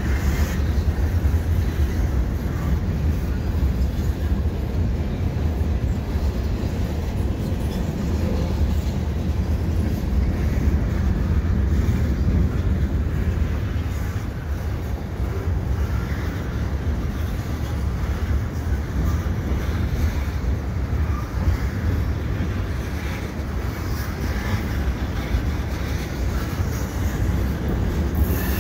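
Loaded freight cars (hoppers, gondolas and tank cars) rolling slowly past over a steel through girder bridge: a steady, deep rumble of wheels on rail.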